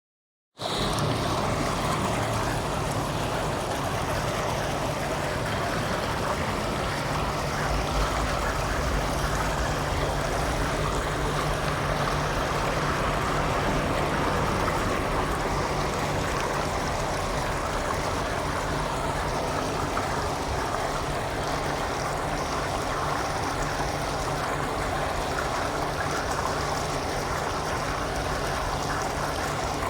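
Steady rushing of running water, like a fountain or stream, with a faint low hum beneath.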